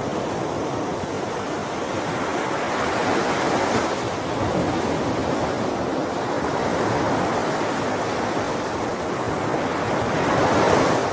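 Ocean waves breaking and washing on the shore as a continuous surf, swelling gently a few seconds in and again near the end.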